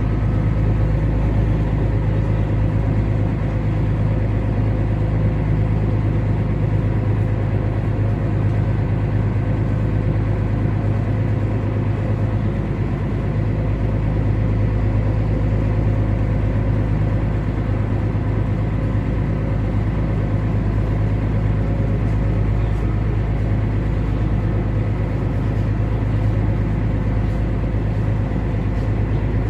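Small ferry's engine running steadily under way: a loud, constant low hum with a few steady tones above it.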